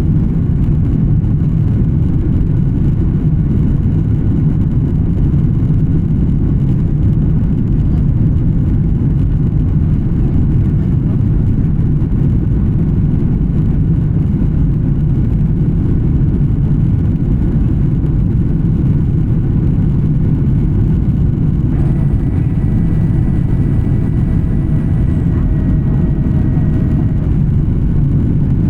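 Airliner cabin noise inside an Embraer 175 in flight: the steady low rumble of the jet's engines and the airflow past the fuselage. A faint steady whine of several tones joins for a few seconds about 22 seconds in.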